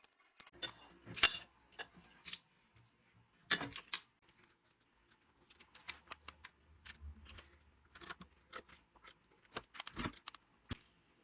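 Irregular clicks, clinks and short scrapes of tools and metal parts being handled at a workbench, with the loudest scrapes about a second in and again near four seconds.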